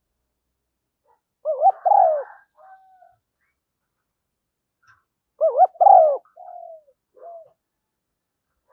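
Spotted dove cooing: two phrases about four seconds apart, each a loud double coo followed by softer, shorter trailing notes.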